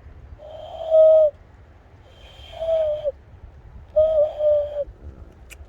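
Three hooting notes blown through cupped hands, a person's hand-call imitating a bird. Each note holds one steady pitch and dips slightly at its end; the second is the shortest, the third the longest.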